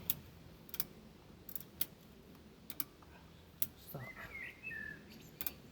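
Ratchet strap's ratchet clicking slowly as it is gently tightened, one sharp click roughly every second. A bird chirps a few times about four seconds in.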